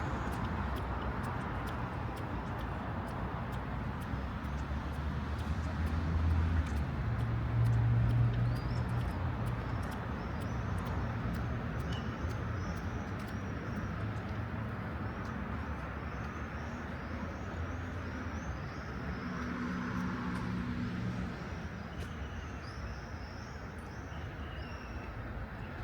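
City street traffic: engine hum from passing vehicles, one passing closer and louder about six to eight seconds in. Birds chirp high above the traffic through the second half.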